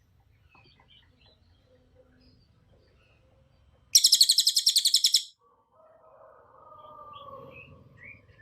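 Cililin singing: faint scattered chirps, then about four seconds in a loud, high, rapid-fire trill of about a dozen notes a second that lasts just over a second. This is the tight 'tembakan' burst prized in song-training recordings.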